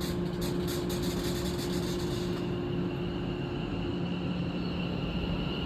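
London Northwestern Railway Class 730 electric multiple unit pulling away, its traction motors giving a high whine that rises slowly in pitch as it gathers speed, over a steady low hum. A light, quick ticking sounds over the first two seconds.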